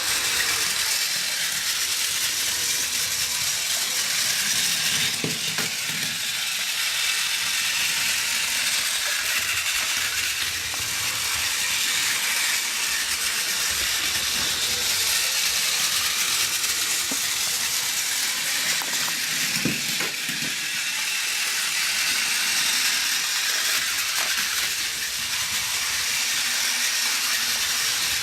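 Battery-powered Plarail toy train, an E1 Series Shinkansen Max model, running with its small motor and gears giving a steady high whirring buzz. There are a couple of faint knocks about five seconds in and again about twenty seconds in.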